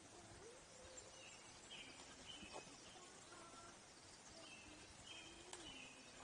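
Faint forest birdsong: short high chirps and whistled notes repeating every second or so over a soft background hiss, with a couple of light clicks.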